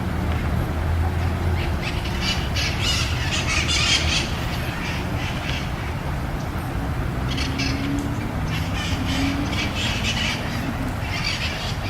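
Birds calling in bouts of rapid, harsh calls, starting about two seconds in, again about seven seconds in and once more near the end, over a steady low hum.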